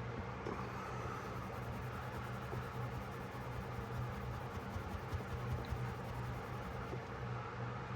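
Steady scratchy rubbing as a vintage pocketknife is scrubbed and cleaned, with a steady low hum underneath.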